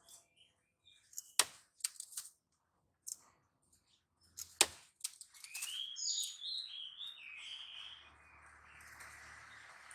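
Oriental magpie-robin (kacer): a few sharp clicks in the first half, then a short run of chirping notes about halfway through, followed by a steady hiss near the end.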